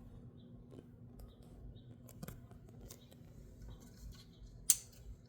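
Light, irregular scratching and ticking of hand cleaning work on the car's metal rear axle housing, with one sharp click about four and a half seconds in. A faint steady hum sits underneath.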